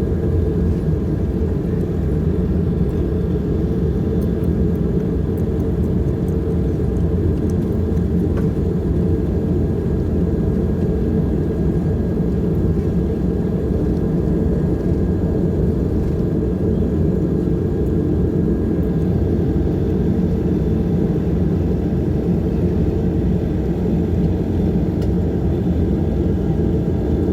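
Embraer EMB-120 Brasilia twin turboprop running, a steady low drone of engines and propellers with a constant hum.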